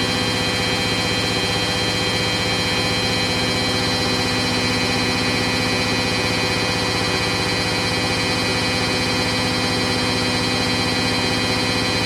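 Hoover DYN9144D3X washing machine spinning at a steady 1000 rpm on its final spin, a constant whine of several high tones from the motor and drum over a low hum.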